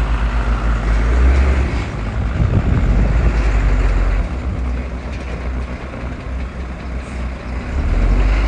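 Heavy diesel engine of earthmoving machinery running under load with a deep, pulsing low note. It works harder in the first few seconds, eases off, then builds again near the end.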